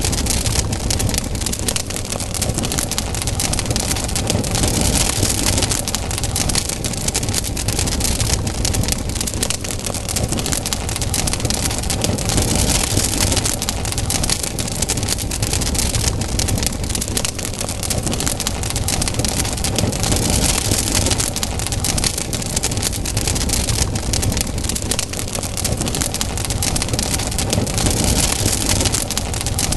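Wood campfire burning, with a dense, continuous crackling and popping over a low rumble. A hiss rises and falls several times.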